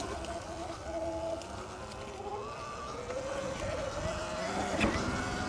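Sur-Ron X electric dirt bike's motor whining while riding, its pitch wavering and rising as it picks up speed, over low wind rumble on the microphone.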